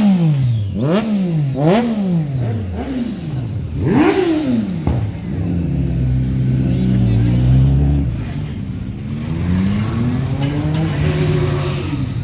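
Kawasaki Ninja ZX-10R's inline-four engine revved through its exhaust in quick throttle blips, each a sharp rise and fall in pitch, about four times in the first few seconds, then settling into steady running.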